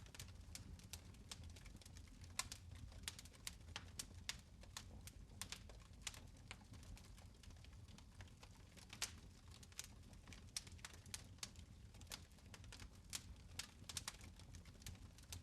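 Quiet fireplace fire crackling: irregular sharp snaps and pops, several a second, some louder than others, over a steady low rumble.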